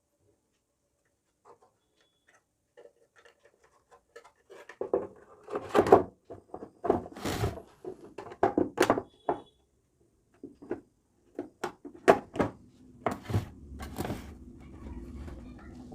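Irregular clicks and knocks of electric geyser parts being handled and fitted into the casing, starting about five seconds in after near silence. A low steady rumble comes in over the last few seconds.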